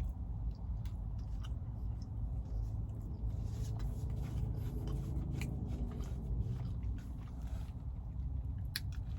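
Steady low rumble inside a parked car's cabin, with scattered faint clicks. A faint hum comes in for a few seconds in the middle.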